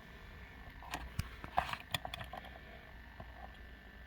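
A few faint light clicks and taps, clustered about one to two seconds in, from a small diecast model car being handled, over a low steady hum.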